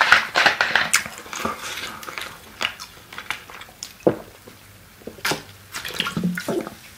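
Close-miked eating sounds: wet chewing and lip smacks on a glazed chicken skewer, then gulps and mouth clicks while drinking from a plastic cola bottle in the second half.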